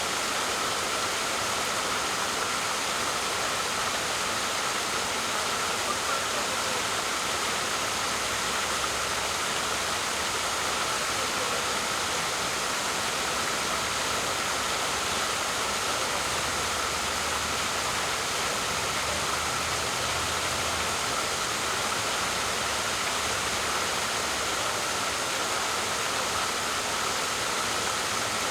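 Waterfall: water falling and splashing in a steady, unbroken rush, with a faint low rumble partway through.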